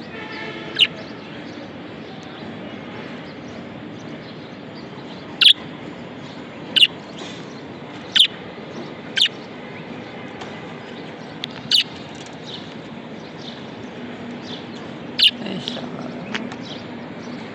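Budgerigar chirping: about seven short, sharp calls at irregular gaps over a steady background of softer chatter.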